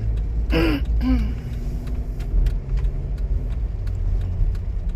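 Heard from inside a moving car: a steady low road rumble, with scattered raindrops ticking on the car's body and glass. A short vocal sound comes about half a second in.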